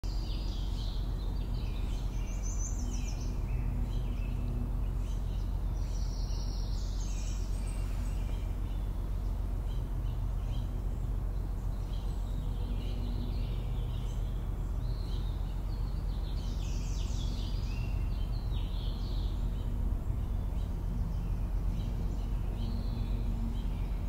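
Wild songbirds chirping and singing in short phrases every few seconds over a steady low hum.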